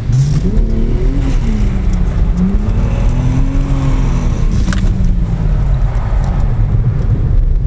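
Car engine revving up and down, heard from inside the cabin while the car slides sideways in a drift on a wet track. The engine note climbs in the first second, dips briefly, rises to a high point about three seconds in, then falls away. There is a single sharp click near five seconds.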